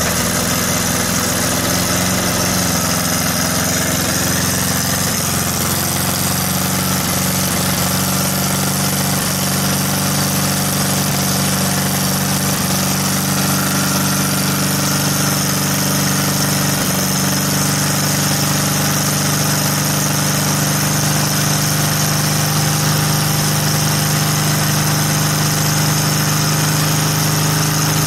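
Volkswagen Thing's air-cooled flat-four engine idling steadily.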